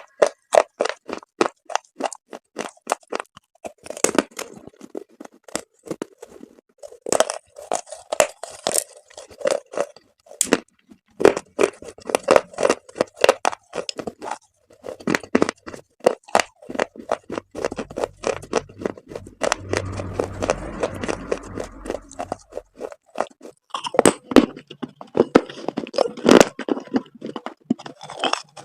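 Dried chalk paste being crunched close to the microphone: rapid, irregular crunches and cracks, with a low rumble for a few seconds in the middle.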